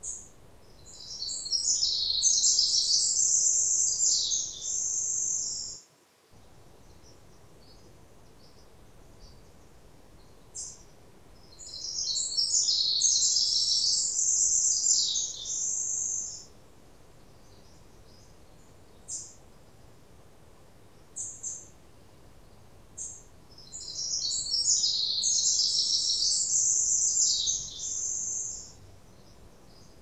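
A songbird singing a long, high-pitched song three times, each about four to five seconds long and roughly twelve seconds apart, with a few short high chirps in between.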